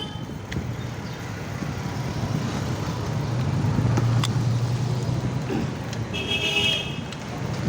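Road traffic noise, with a motor vehicle engine humming louder as it passes in the middle. About six seconds in comes a brief high-pitched tone, like a horn toot.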